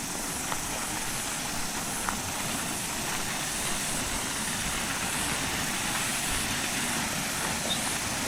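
Waterfall pouring into its pool at a low summer flow: a steady, even rushing noise.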